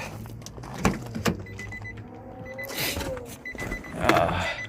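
Clicks, knocks and rustling from hand work in an engine bay as intake hoses and clamps are reconnected, with the loudest handling noise about four seconds in. A faint high tone comes and goes behind it.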